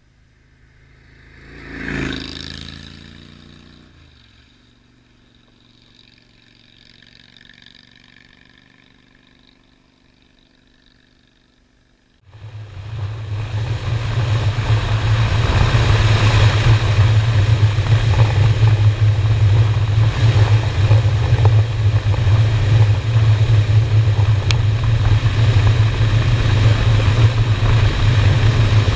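A vehicle passes, its engine pitch falling as it goes by. About twelve seconds in, a loud, steady riding sound starts suddenly: a Honda Shadow motorcycle's V-twin engine drones under a haze of wind noise on the bike-mounted microphone.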